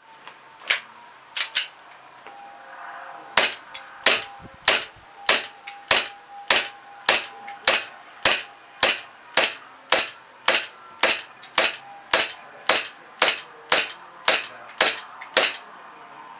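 Airsoft Glock 17 gas blowback pistol firing: three shots, then a steady string of about twenty shots at a little under two a second, which stops shortly before the end.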